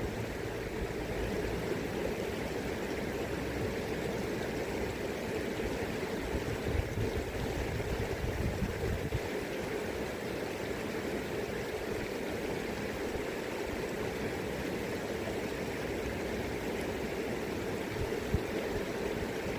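River current flowing steadily. Wind buffets the microphone in low rumbles during the first half, then eases.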